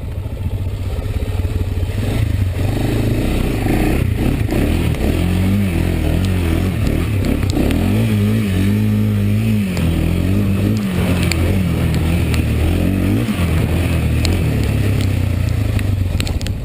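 Honda ATV's single-cylinder four-stroke engine running while riding, its pitch rising and falling repeatedly with the throttle through the middle stretch, with scattered clicks and clatter.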